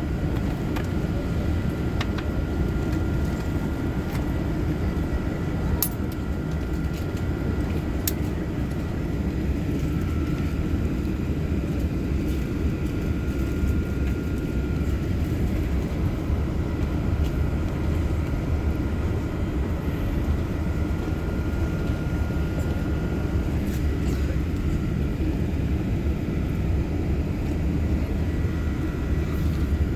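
Airbus A380 jet engines and airflow making a steady, unbroken low roar, with faint steady whining tones above it.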